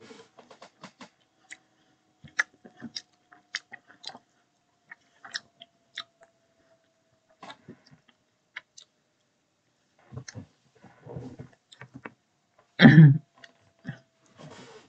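Close-up eating mouth sounds: a scattered string of short, sharp chewing and lip-smacking clicks, with one louder low thump near the end.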